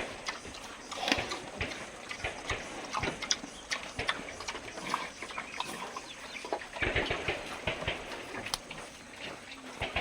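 Farm livestock moving and feeding: many irregular short clicks and knocks, busier for a moment about seven seconds in.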